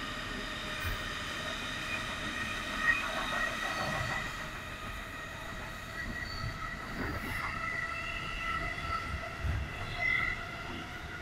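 Running sound inside a Keikyu 1500-series electric train car at speed: a steady rumble of wheels on the rails with several high, steady whining tones, and a few low thumps along the way.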